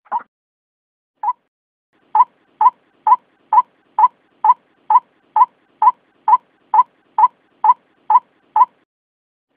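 White-breasted waterhen calling: two single short notes, then an even run of about fifteen short, sharp notes at roughly two a second.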